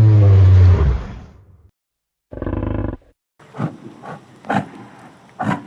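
A large animal's deep, drawn-out call that fades out about a second in, a short call at about two and a half seconds, then a run of short sounds about two a second.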